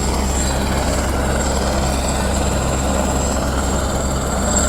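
Helicopter engine and rotor running steadily: a continuous low drone with a thin, steady high whine over it.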